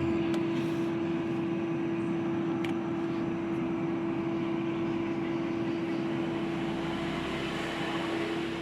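LG two-door refrigerator's compressor running after a refrigerant recharge: a steady hum with an even hiss, with the fridge cooling again.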